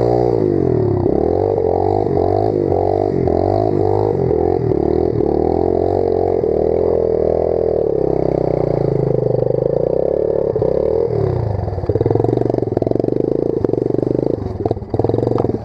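Pit bike engine revving up and down repeatedly as it is ridden, then holding steadier revs about halfway through.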